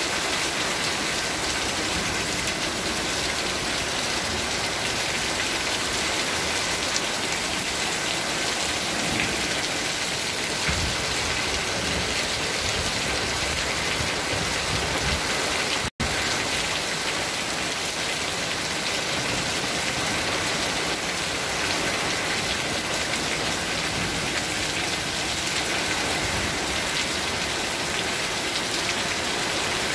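Heavy wind-driven rain pouring down, a steady dense hiss of rain on the ground and on a corrugated sheet roof overhead. The sound drops out for an instant about halfway through.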